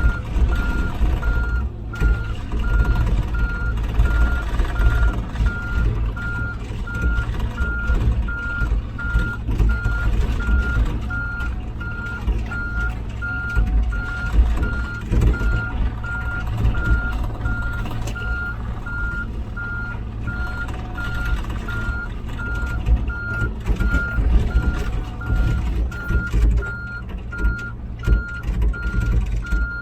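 Komatsu PC16 mini excavator travelling, its travel alarm giving an even, continuous run of short high beeps over the steady low rumble of its diesel engine and the irregular knocks of the tracks.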